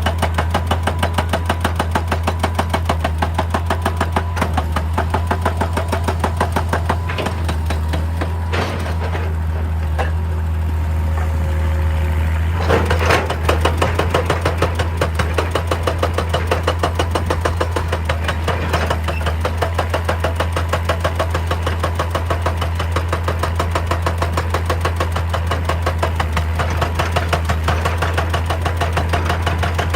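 Hitachi EX200 excavator's diesel engine running steadily under a fast, regular pounding of several knocks a second.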